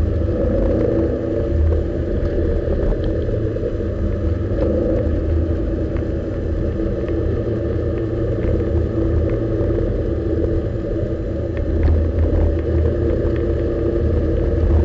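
Lotus Elise S1's Rover K-series four-cylinder engine running steadily in third gear at moderate revs, heard from inside the car with road and tyre noise.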